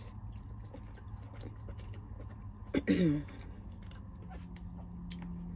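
A person chewing a mouthful of food, with small clicks of a plastic spoon in a plastic bowl, over a low steady hum. A brief voiced sound comes about three seconds in.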